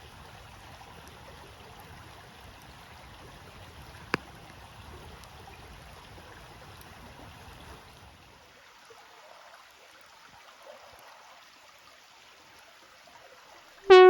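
Wood campfire burning with a faint steady hiss and crackle, and one sharp pop about four seconds in. The fire sound thins out after about eight seconds, and keyboard-like music starts right at the end.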